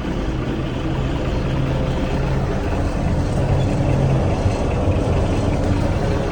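International Harvester 1566 tractor's turbocharged six-cylinder diesel running steadily just after start-up, still cold because it has not been run for a while.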